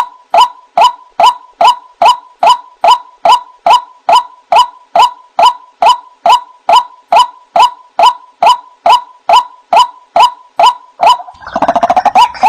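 White-breasted waterhen calling: a steady series of short, identical notes, about two to three a second. About a second before the end, a loud, dense chorus of overlapping, harsh calls breaks in.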